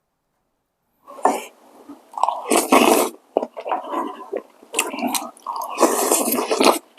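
A person eating spicy instant jjamppong ramen close to the microphone: wet slurps and chewing that start about a second in, with two long, loud slurps at about three and six seconds.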